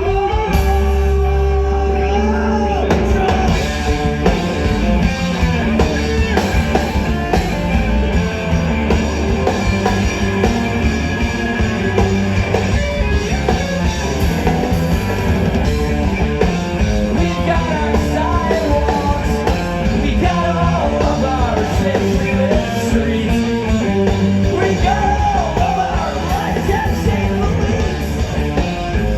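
Post-hardcore band playing live at full volume: electric guitars, bass and drums, the full band crashing in just after the start, with singing over it.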